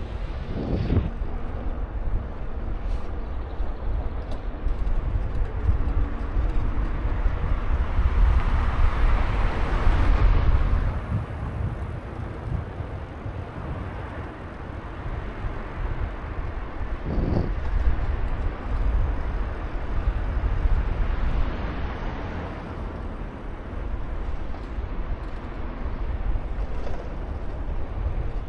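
Wind buffeting the microphone on a moving bike, a steady low rumble, with road and traffic noise that swells to a peak about ten seconds in and cuts off, and swells again more softly about twenty seconds in.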